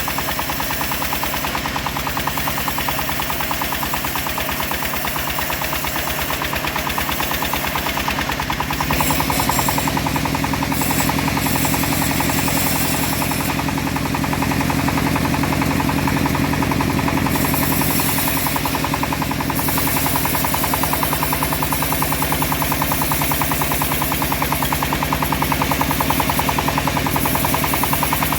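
Engine driving a homemade bandsaw mill, running steadily with a rapid, even knocking pulse. About nine seconds in it grows louder and fuller and stays so, with a hiss added for several seconds in the middle.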